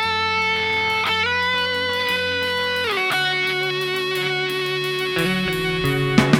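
Electric lead guitar holding long sustained notes, sliding up in pitch about a second in and down near three seconds, over steady low bass notes. Drum hits come in just at the end.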